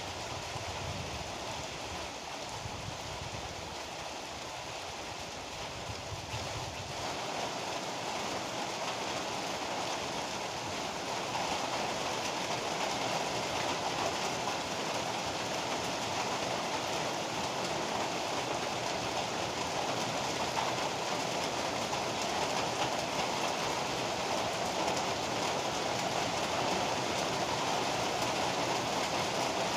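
Heavy rain pouring steadily, with a low rumble underneath for the first several seconds. The low rumble then drops away and the rain grows louder and fuller from around ten seconds in.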